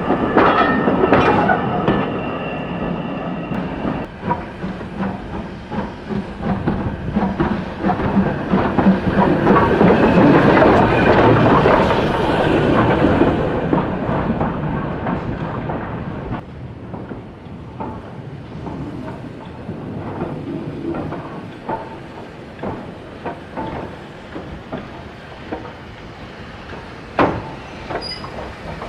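A steam-hauled train rolling past, its wheels clicking over the rail joints. It is loudest about ten seconds in, then fades, with one sharp clack near the end.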